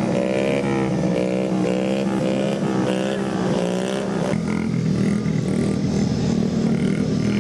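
Small mini bike motorcycle engines running. One is revved with its pitch swinging up and down several times in the first four seconds, then it settles to steadier running.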